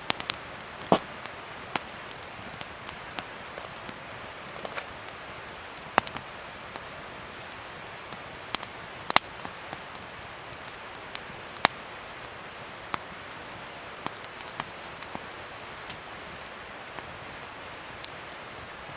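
Wood fire crackling: a steady hiss with irregular sharp pops and snaps every second or so.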